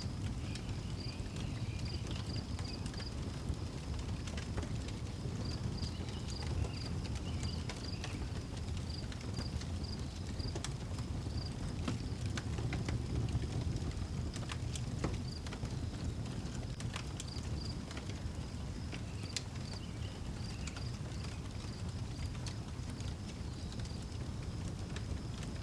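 Wood fire crackling, with scattered sharp pops over a low steady rumble, while crickets chirp in short pulsed trains at a high, steady pitch that come and go every few seconds.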